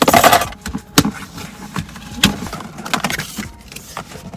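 Packing tape being ripped off a cardboard box: a loud tearing burst at the start, a sharp click about a second in, then rustling and small clicks as the box is handled.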